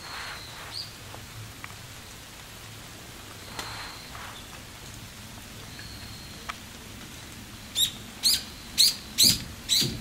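A bird calling close by: a quick series of loud, sharp notes, about two a second, starting about two seconds before the end. Beneath it a steady outdoor hiss with a few faint high whistles.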